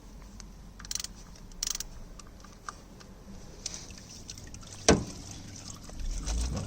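Old engine oil trickling out of a car's sump into a drain pan, with scattered clicks and scrapes of tools on the sump and one sharp metallic knock about five seconds in.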